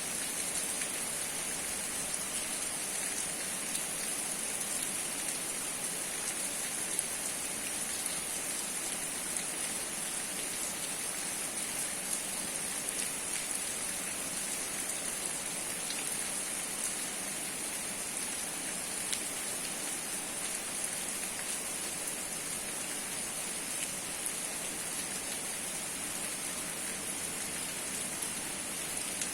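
Steady rain falling, with a few separate drops ticking on a surface now and then.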